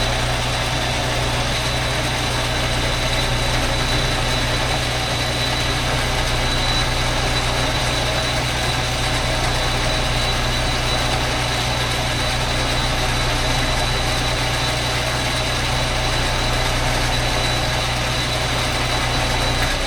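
Metal lathe running steadily while it bores out a motorcycle cylinder, a low motor hum under a thin, steady high whine.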